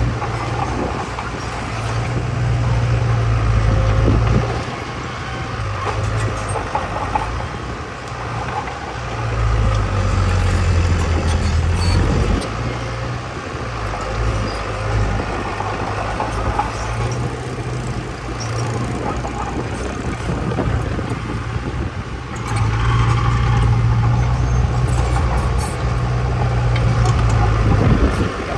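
Heavy diesel earth-moving machinery running, a deep engine rumble that swells and fades as it works under load.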